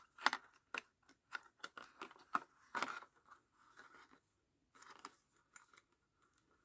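Irregular small clicks and rustles of craft pieces being handled and worked on a desk, about a dozen sharp clicks spread through.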